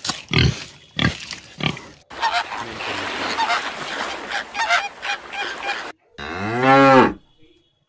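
Short animal grunts, then a few seconds of a dense, noisy flock calling, then a cow mooing once about six seconds in, a loud call rising and falling in pitch.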